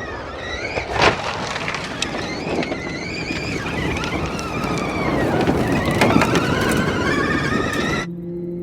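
Audi RS Q e-tron rally car driving, its electric motors giving a whine that rises and falls in pitch over heavy tyre and ground noise, with sharp knocks about one second and six seconds in. Near the end the sound cuts suddenly to a steady low hum.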